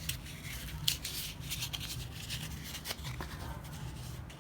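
Scissors snipping through a flattened cardboard toilet-paper roll: a few scattered short snips with paper handling, over a faint steady low hum.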